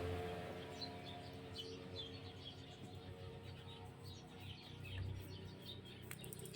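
Faint birds chirping, with many short scattered calls.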